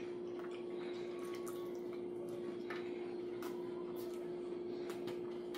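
Faint wet chewing and mouth clicks from someone eating a sandwich, scattered soft ticks over a steady low hum.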